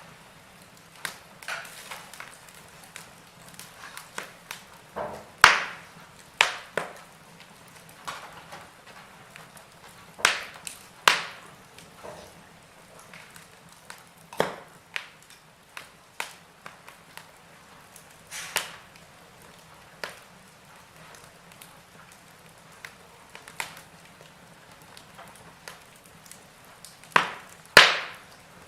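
Burning logs in a fireplace crackling, with irregular sharp pops and snaps over a faint steady hiss; the loudest pops come about five seconds in and near the end.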